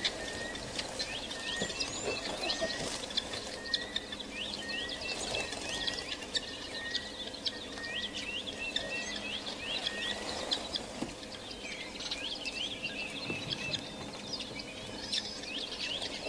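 A chorus of wild birds: many quick, sharp chirps and twitters overlapping, with a lower short note repeated about twice a second through the first half.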